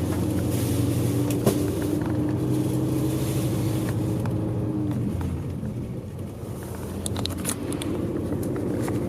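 Coach bus engine running under way, heard inside the cabin as a steady hum with road noise. The hum eases off about five seconds in and builds again toward the end, with a few light clicks or rattles around seven seconds.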